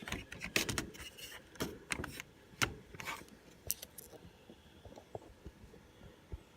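Irregular clicks, rattles and scrapes of things being handled, busiest in the first four seconds and thinning out after.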